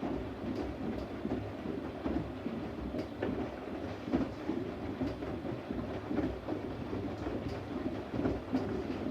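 Siemens Siwamat iQ 716 front-loading washing machine running, a steady rumble with faint scattered clicks.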